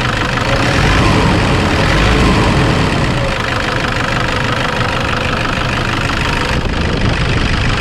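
Toyota Innova D-4D diesel engine idling steadily, heard close in the engine bay.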